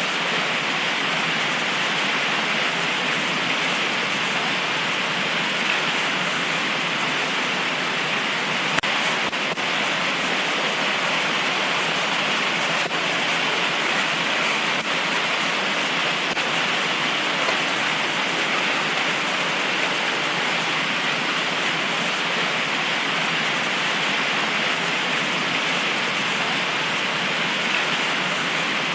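Heavy tropical rain pouring steadily, a dense, even hiss that does not let up.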